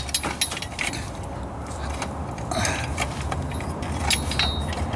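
Scattered light metallic clicks and clinks from handling a caulking gun of seam sealer under the truck, over a steady low hum.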